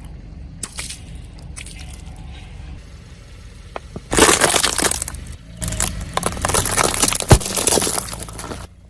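A car rolling over and crushing something brittle: two long spells of crackling and crunching, with a sharp snap near the end, over a low rumble from the car.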